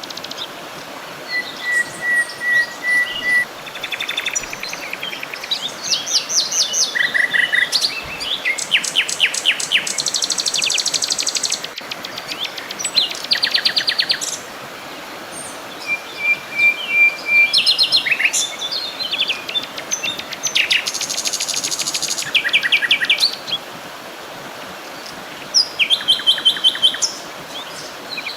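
Several songbirds singing at once, their songs overlapping in rapid trills, chirps and a few short, level whistled notes, over a faint steady hiss.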